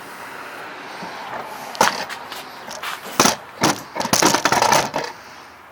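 A few sharp knocks and clatters: one about two seconds in, two more a second later, then a rapid cluster of them for about a second, over a steady hiss.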